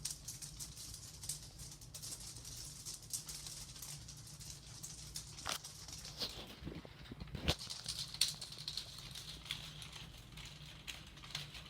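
Ceiling fan spinning with a strip of tape stuck to one blade, the tape flapping in a rapid fluttering patter of ticks over the low hum of the fan motor, with one sharper knock about seven seconds in.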